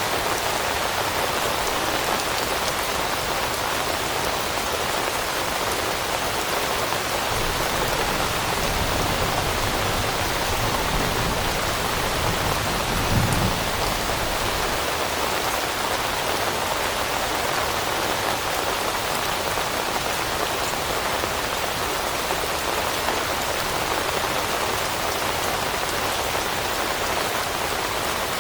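Steady rain falling on leaves, an even hiss of countless drops. About halfway through, a low rumble swells briefly and fades.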